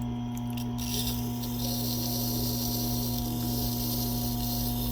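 Tormek T8 water-cooled sharpener running with a steady motor hum; from about a second in, a steady hiss of a knife blade being ground on the wet stone.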